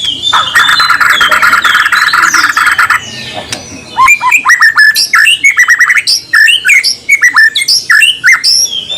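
White-rumped shama (murai batu) song: a harsh, buzzy rasp for about three seconds, then, after a short gap, a fast run of sharp, loud down-slurred whistles.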